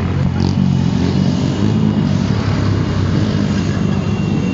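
Several motorcycle engines running together in a steady low rumble.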